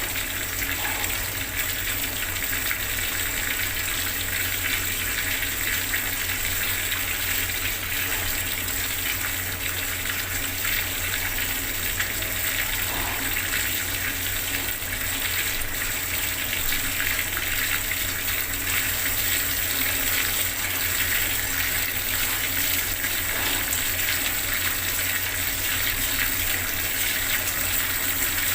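Bathroom water tap running steadily, a continuous even gush of water.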